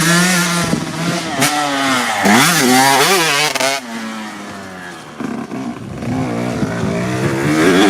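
KTM 125 SX two-stroke single-cylinder motocross engine revving hard, its pitch rising and falling repeatedly through the throttle and gear changes. It eases off about four seconds in, then builds revs again near the end.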